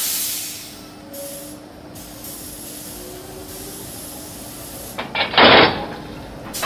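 Train sounds: hissing air comes in several pulses, the first starting sharply and fading. A short, louder rushing burst of noise follows about five seconds in.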